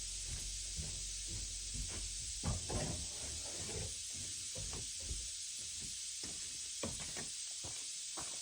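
A few light knocks and bumps, scattered and irregular, the clearest about two and a half seconds in, over a steady background hiss and low hum.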